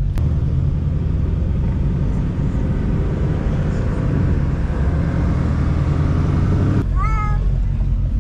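Car engine running loudly, growing stronger in the middle, then cut off suddenly about seven seconds in. A short rising vocal call follows.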